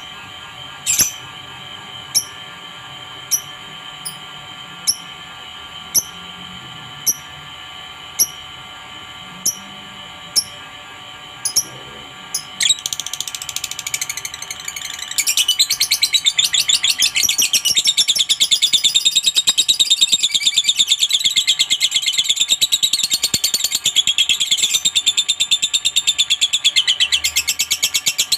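Lovebird calling: single sharp chirps about once a second, then, from under halfway in, a long, very rapid chattering trill, the 'ngekek' song, that grows louder and runs on.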